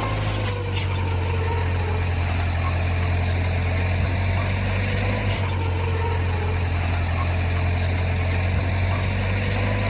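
Heavy diesel engine of earthmoving equipment running steadily at a constant low speed, with a faint wavering whine above it and a few light clicks about half a second in.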